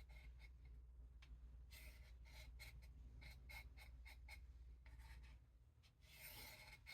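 Faint light scraping of a knife blade stroked along a sharpening rod: a run of short strokes, about two a second, with a longer stroke near the end.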